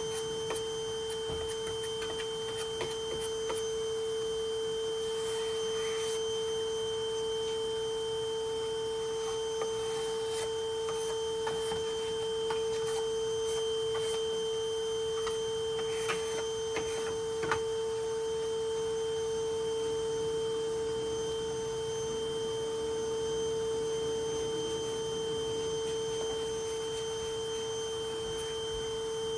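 A steady high-pitched whine holding one unchanging pitch throughout, with a few faint clicks and knocks scattered through it.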